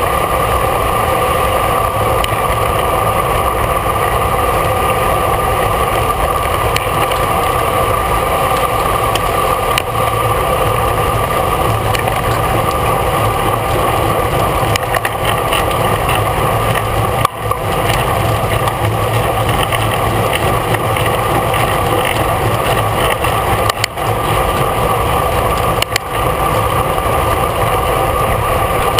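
Steady rush of wind and road noise on a bicycle-mounted camera riding at race speed in the bunch, with a few brief dropouts.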